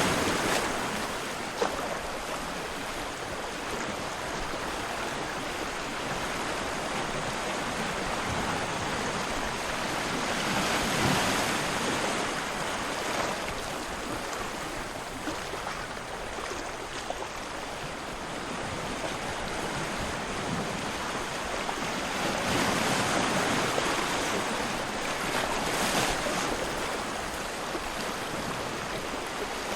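Surf: a continuous rush of ocean waves that swells and eases several times as waves break and wash in.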